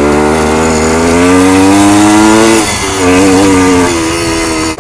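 Kawasaki F11 250 two-stroke single-cylinder dirt bike engine pulling under throttle, its pitch climbing steadily for about two and a half seconds. It then drops off sharply before pulling again.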